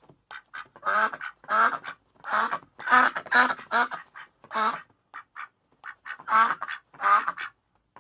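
Duck quacking in a run of repeated calls, about two to three a second, with a few short, fainter calls in a lull about five seconds in.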